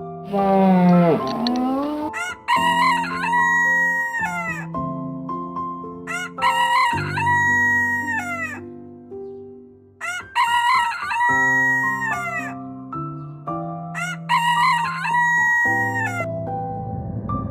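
A rooster crowing four times, evenly spaced about four seconds apart, each crow a long cock-a-doodle-doo that rises, holds and falls, over soft background music. A single falling call comes before the first crow.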